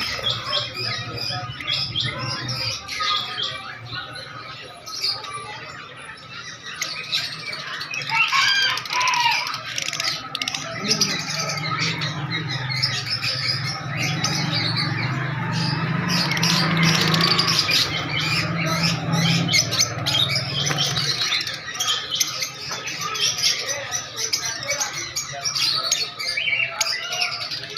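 Many small caged birds chirping and squawking together in a dense, continuous chatter, with a low steady hum underneath for about ten seconds in the middle.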